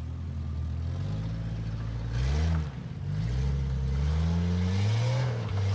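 Jeep engine revving under load, its pitch climbing, falling back about two and a half seconds in, then climbing again.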